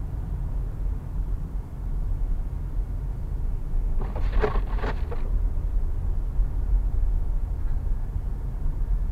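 Steady low rumble of a car driving on the highway, road and engine noise heard from inside the cabin. About four seconds in there is a brief, brighter noise lasting about a second.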